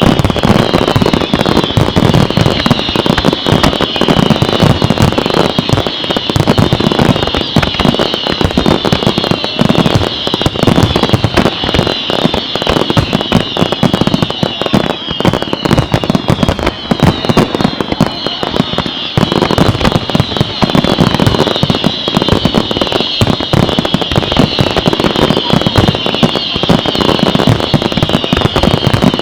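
Dense, continuous fireworks barrage: rapid bangs and crackling without a break, overlaid by many high whistles that each slide downward in pitch, starting again about once a second.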